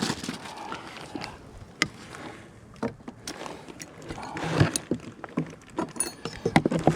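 Handling noise from preparing a small hive beetle trap: scattered light clicks and taps, a soft knock about four and a half seconds in and a brief high squeak about six seconds in.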